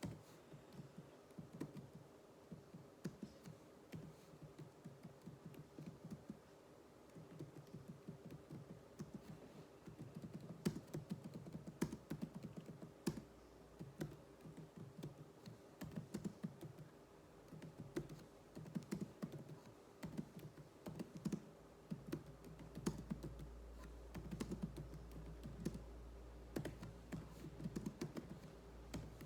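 Computer keyboard being typed on in quick, uneven runs of key presses during touch-typing drills. A low steady hum joins in about two-thirds of the way through.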